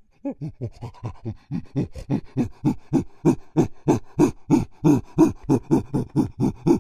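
A monkey calling: a fast, rhythmic series of panting hoots, about four a second, growing louder as it goes.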